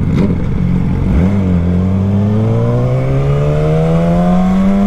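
Motorcycle engine pulling under load, its pitch climbing slowly and steadily after a brief dip about a second in, then dropping sharply at the end as it shifts up a gear.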